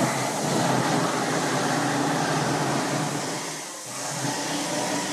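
Steady mechanical whirring noise with a low hum underneath, cutting in abruptly at the start.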